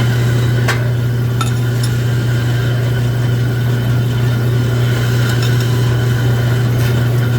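Steady, loud hum of a drill press's electric motor running, with a couple of light metallic clicks about a second in.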